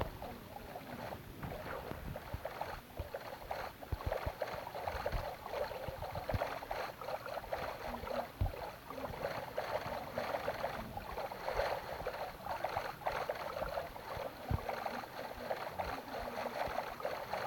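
Heavy rain pattering steadily in a dense crackle of drops, with a few dull thumps.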